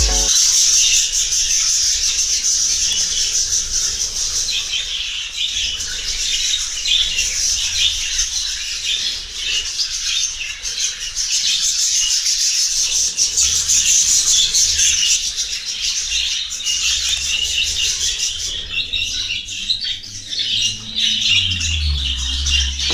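A flock of budgerigars chattering and chirping continuously in a dense, overlapping high-pitched chorus.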